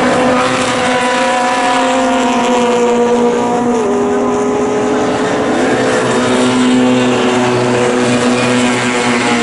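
Several historic Formula Junior race car engines running at a steady, held pitch, one dropping slightly in pitch a few seconds in.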